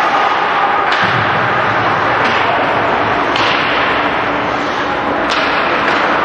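Ice hockey play in a rink: four sharp knocks, about a second or two apart, of stick, puck or bodies hitting the boards, over steady rink noise of skates and crowd.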